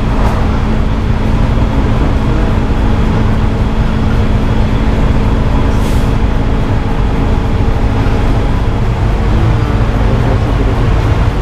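Motorcycle running steadily on the road, a loud continuous engine drone with rushing noise over it.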